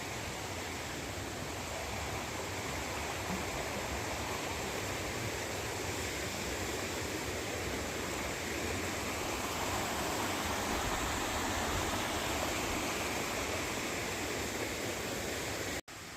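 Valley stream water rushing steadily, swelling a little about two-thirds of the way through. The sound cuts out for an instant just before the end and comes back quieter.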